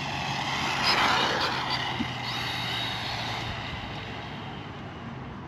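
ZD Racing RX12 RC rally car driving, its electric motor whining over tyre noise. It is loudest about a second in and fades as the car moves away.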